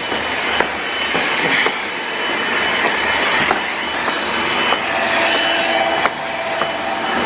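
A train running at a station platform: a steady loud rumble and hiss with a faint steady whine and a few scattered clicks.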